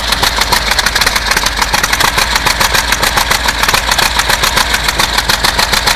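Truck engine running just after a cold start in hard frost, with an even, fast beat.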